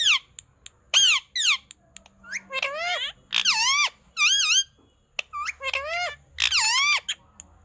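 Pet parrot calling: a run of about ten short, high, squeaky calls with swooping, wavering pitch.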